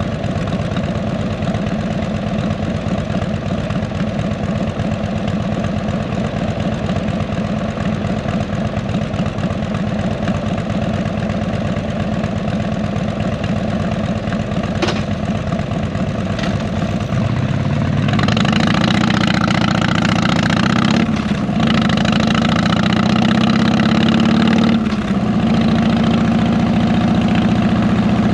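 Harley-Davidson Electra Glide V-twin with fishtail exhaust idling steadily, with a single click about halfway through. About 18 seconds in it gets louder and rises in pitch as the bike pulls away, with two brief dips like gear changes.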